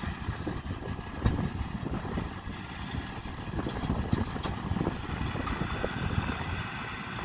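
Diesel engines of harvest machinery running steadily, with an irregular low rumble from wind on the microphone and a short knock about a second in.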